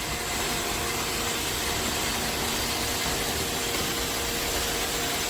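iRobot Roomba Vac Essential (Q0120) robot vacuum running over the floor: the steady hiss of its suction and brushes, with a faint steady hum under it.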